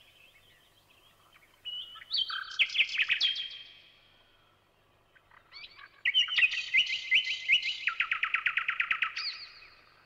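A songbird sings two phrases of rapid repeated notes and trills. The first comes about two seconds in. The second, longer one starts around five and a half seconds in and steps down in pitch partway through.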